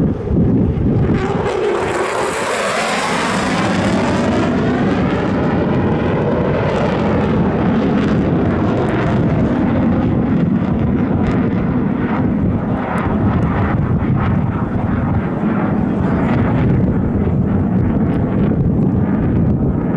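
Military jet flying past at an airshow: a surge of engine roar with a sweeping, phasing whoosh about one to four seconds in, then a steady rumble that carries on.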